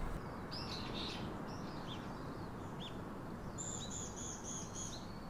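Wild birds calling: scattered short chirps, then about three and a half seconds in a quick run of about six repeated high notes, over a steady outdoor hiss.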